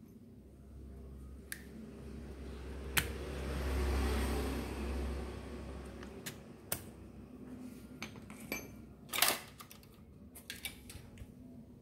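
Tools and small metal parts being handled on a workbench: scattered clicks and clinks, a rubbing or scraping noise that swells and fades over the first few seconds, and a louder clatter about nine seconds in.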